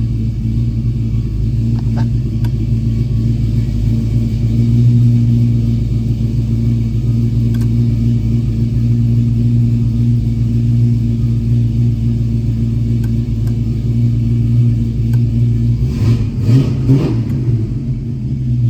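Ford 347 stroker small-block V8 idling steadily.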